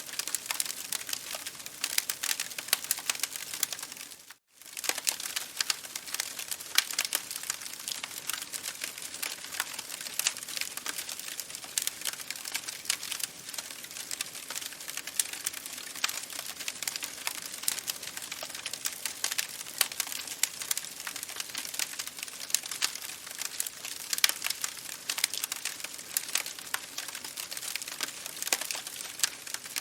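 Campfire burning, dense crackling and popping over a steady hiss. The sound cuts out for a split second about four seconds in.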